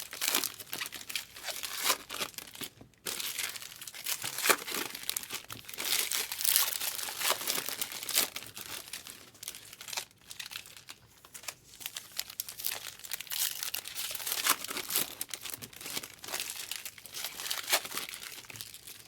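Foil wrappers of Topps Heritage baseball card packs being torn open and crumpled: an irregular run of crinkling and tearing.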